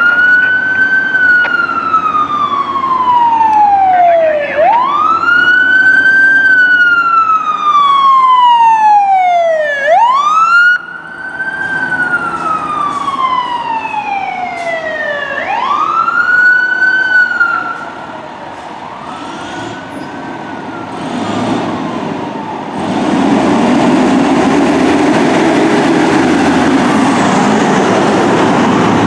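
Fire apparatus siren in a slow wail, its pitch rising and falling about every five seconds. It fades after about 18 s, and near the end a loud steady rush of vehicle noise takes over as the apparatus passes close.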